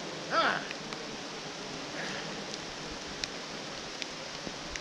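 Steady rain hiss on the forest ground, with a short call about half a second in whose pitch rises and falls, and a few faint ticks later on.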